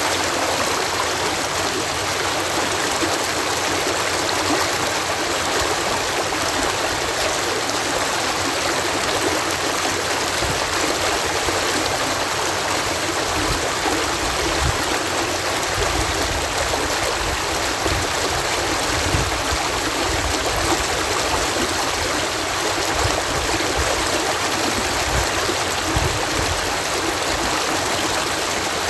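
Water cascading through a canal lock: a steady, even rushing of falling water, with irregular low rumbles coming and going in the second half.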